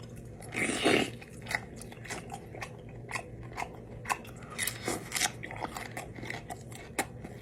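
Close-miked eating: biting and chewing seafood-boil food, heard as a burst of noise about a second in followed by many short, wet clicks.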